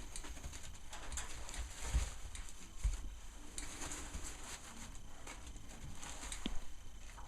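Puppies moving about, their paws pattering and scratching, with a couple of soft thumps about two and three seconds in.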